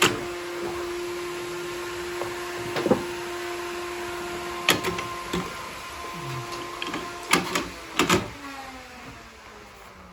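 Sawmill machinery running with a steady hum, broken by several sharp knocks, likely timber or metal being handled. Near the end the hum drops in pitch and fades as the machine winds down.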